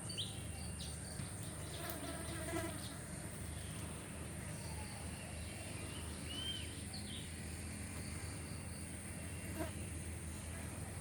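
Steady, high-pitched insect drone in tropical forest, with a few short bird chirps over it.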